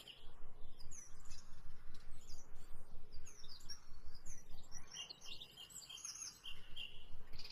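Small birds chirping in the background: many short, quick chirps that rise and fall in pitch, coming irregularly throughout.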